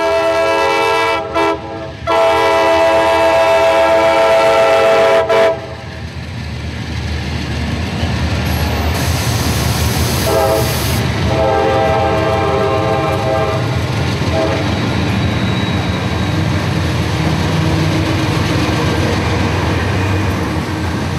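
A CSX diesel freight train passes close by, sounding its horn: a long blast broken briefly about two seconds in, then a few shorter blasts about ten seconds in. Under the horn the locomotives rumble past, followed by the rolling freight cars.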